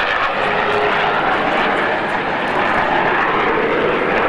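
Aircraft engine noise from an airplane in flight, a steady loud rushing sound without breaks.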